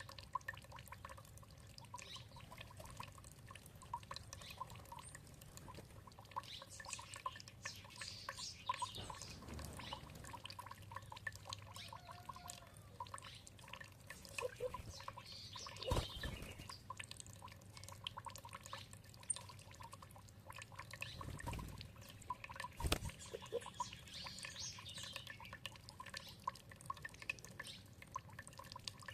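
Trickling, dripping water with many small splashes, and birds chirping now and then in the background. Two sharper, louder drips or clicks stand out, one about halfway through and one a few seconds later.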